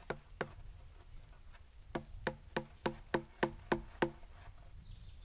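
Hard knocks of wood being struck, a blade being driven into wood by repeated blows. Two knocks come at the start, then a steady run of about three strikes a second begins about two seconds in.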